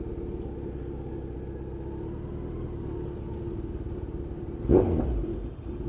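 Motorcycle engine running steadily at low revs in traffic, a droning hum. Near the end a short, louder rumbling burst rises over it for about a second.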